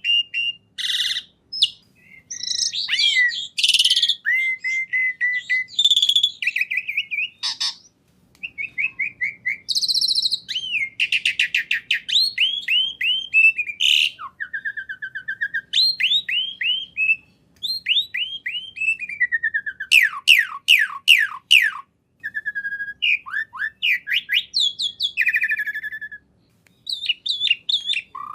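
A songbird singing a varied, rapid song: runs of repeated falling whistled notes, fast trills and chirps, and a held whistle about halfway through, in short phrases with brief pauses.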